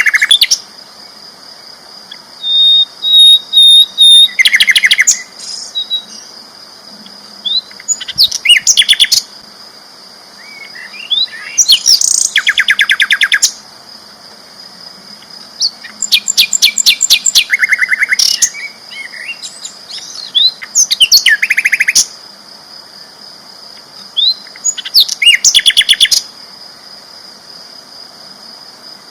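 Sikatan londo flycatcher singing loudly in repeated bursts of rapid, high trilled notes, a burst every three to four seconds and each lasting one to two seconds. A steady high-pitched tone runs underneath.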